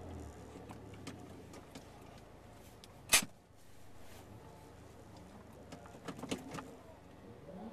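Cabin sound of a 2010 Mazdaspeed3 sitting stationary with its turbocharged 2.3-litre four-cylinder idling quietly, a faint low hum with small scattered clicks. A single sharp knock about three seconds in is the loudest sound.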